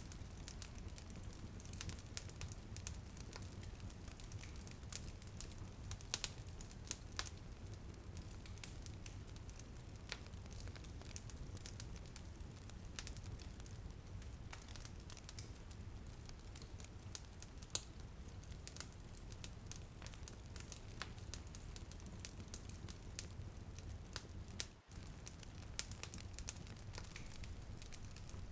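Wood fire crackling in a fireplace: irregular sharp pops and snaps scattered over a steady low rumble and soft hiss, with a momentary drop-out about 25 seconds in.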